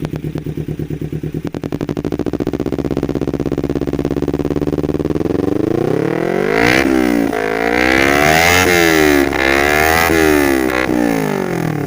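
Kawasaki Ninja 250 Fi parallel-twin engine through an aftermarket M4 exhaust, idling, then climbing in revs and blipped up and down repeatedly before falling back toward idle near the end.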